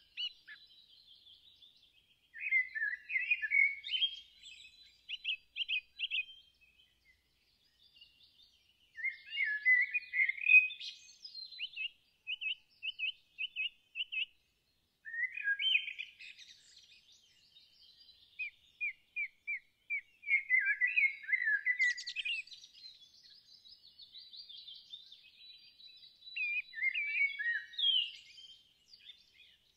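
Songbirds singing: phrases of quick chirps, repeated notes and trills a few seconds long, separated by short pauses.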